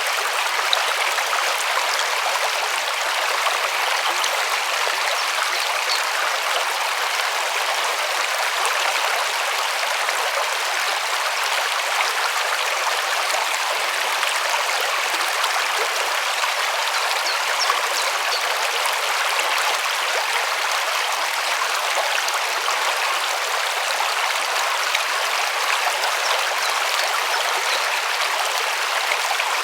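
A river flowing over stones: a steady, even rush of water with a constant splashing.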